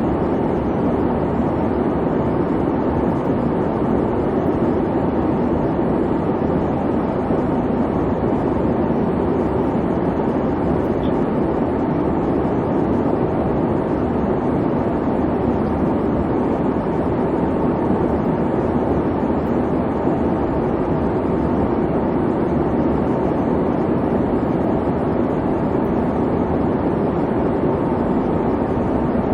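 Airliner cabin noise in flight: a steady, even rumble and hiss from the engines and the air rushing past, without change.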